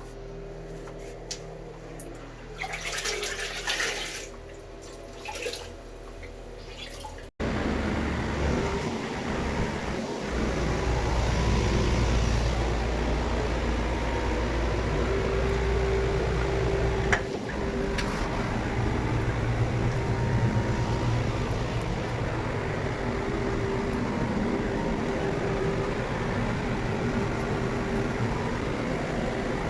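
Water running steadily, a loud, even rush with a low hum beneath it, starting abruptly about seven seconds in. Before that the room is quieter, with a few short hissing sounds.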